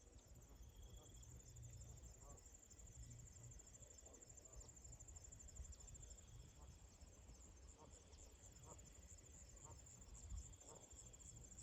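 Crickets trilling faintly in a steady, high-pitched, finely pulsing chorus over a soft low rumble.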